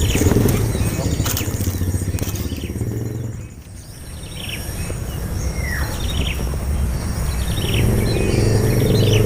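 Low engine rumble that fades away about three and a half seconds in and builds again toward the end, with short falling bird chirps over it.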